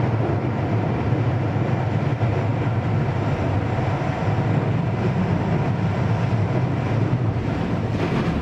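Keio Series 5000 electric train running steadily at speed, heard from inside the passenger car: an even rumble of wheels on rail and running gear, with a brief click near the end.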